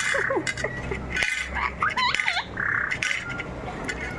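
Pet parrot calling: short squawks and a few swooping calls that bend up and down in pitch, with some sharp clicks between them.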